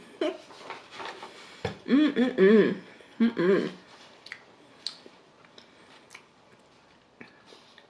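Close-up eating sounds of a bite of cereal-topped cream pie being chewed with the mouth closed, with a short wavering hum of enjoyment about two seconds in, then scattered small mouth clicks.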